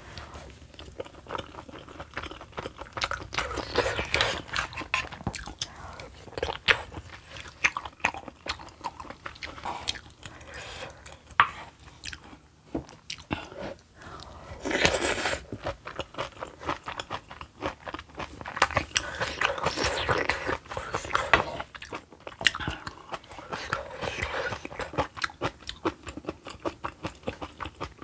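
Close-miked eating: chewing, biting and wet mouth sounds of a person eating spicy kimchi stew with stewed kimchi, pork belly, tofu and sujebi dough flakes, in a dense run of irregular clicks and squelches, with one louder burst about fifteen seconds in as a big spoonful goes in.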